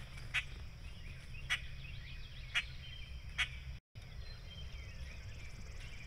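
Four short, sharp bird calls about a second apart over a steady low hum, with faint thin whistles of other birds between them. The sound cuts out for a moment near the end.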